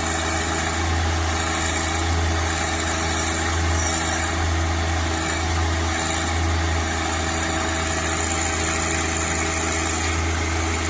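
John Deere compact tractor's engine running steadily while the backhoe is worked. Its deep hum swells slightly every second or so.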